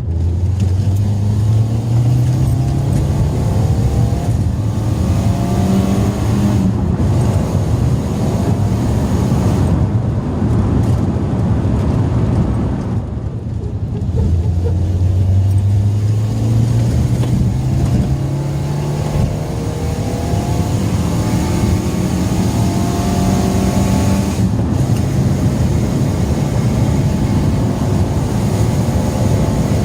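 Citroën Saxo VTR's 1.6-litre eight-valve four-cylinder engine on a hard acceleration pull with the standard airbox fitted, so its induction noise is muffled. The revs climb steadily, falling back briefly at each gear change, several times over.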